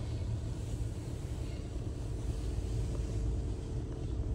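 Jeep Renegade Trailhawk idling, heard from inside its closed cabin as a steady low rumble with a faint hum over it.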